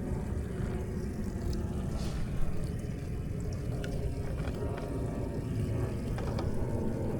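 Steady low rumble of a boat's engine running, with a single sharp knock about two and a half seconds in.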